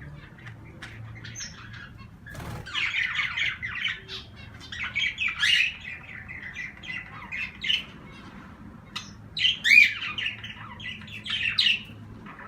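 Pet cage birds chirping and squawking in several bursts, loudest near the end, after a single sharp knock about two seconds in. A faint steady low hum runs underneath.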